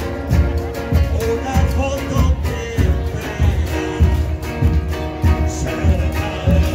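Murga music: a sung song over a steady beat of low bass drums.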